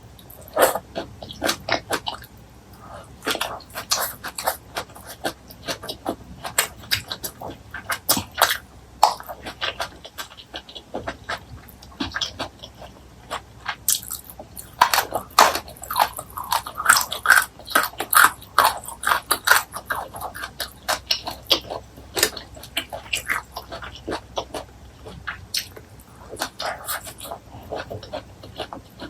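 Close-miked eating with no talking: chewing and biting into crisp fried fish, giving many short crunches and wet mouth clicks, busiest about halfway through.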